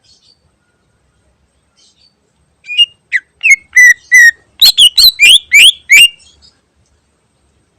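Greater green leafbird (cucak ijo) singing: a loud burst of about ten clear whistled notes, the first ones slurring downward and the later, loudest ones sharp upward sweeps, starting nearly three seconds in and lasting about four seconds.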